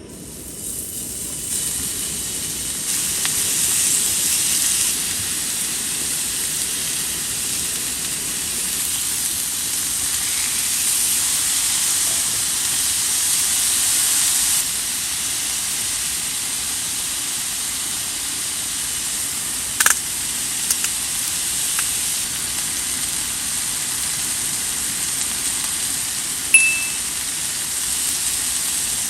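A steady sizzling hiss from cooking on the stove, swelling over the first few seconds and then holding. A single sharp click comes about two-thirds through, and a brief high beep near the end.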